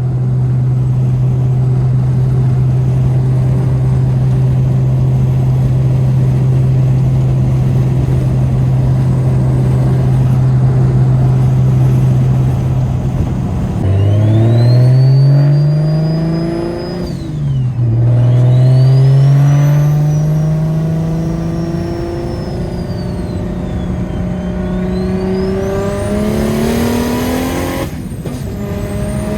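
BMW 335i's N54 inline-six with a single-turbo kit running at a steady cruise, then accelerating hard about halfway through: the engine note climbs, drops sharply at a gear shift and climbs again, with a high turbo whistle rising and falling with the revs. Near the end a loud hiss of rushing air, then the engine note drops away.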